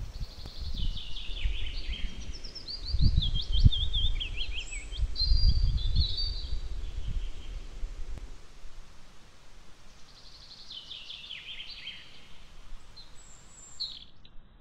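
A songbird sings two phrases of quick, falling notes, about five seconds apart. Under the first, a low rumbling noise fades out about eight seconds in.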